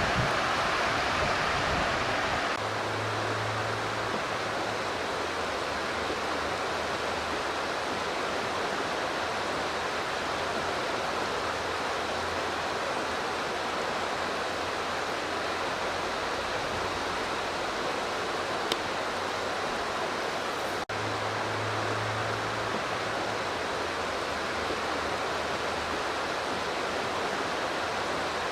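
Steady rush of flowing river water, an even hiss with no rhythm; it is a little louder for the first couple of seconds and briefly drops out about three quarters of the way through.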